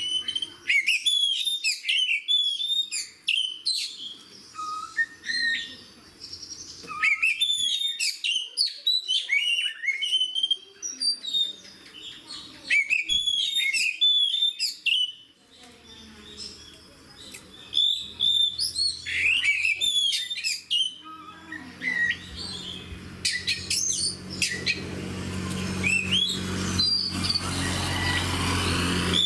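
Oriental magpie-robin singing in loud, rapid phrases of varied whistles and chirps, with short pauses between phrases. A low steady hum comes in underneath about three quarters of the way through and grows louder.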